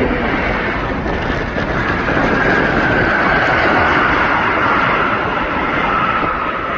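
Aircraft passing, a steady rush of engine noise with a high whine that slowly falls in pitch. Heavy wind noise is on the microphone.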